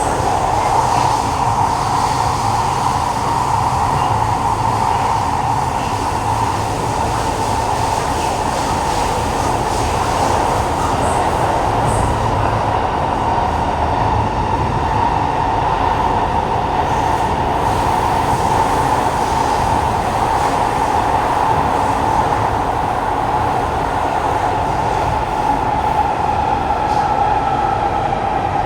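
Kawasaki Heavy Industries C151 metro train, GTO-VVVF type, heard from inside a motor carriage while it runs at speed. Steel wheels on rail and traction motor noise make a steady loud rumble. A faint tone rises near the end.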